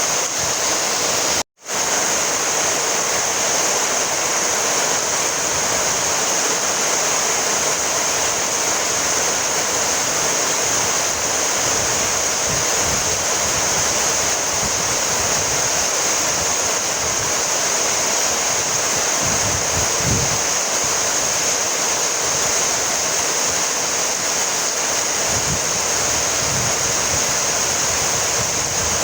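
Steady, heavy rainfall hiss. It cuts out completely for a split second about a second and a half in, then resumes unchanged.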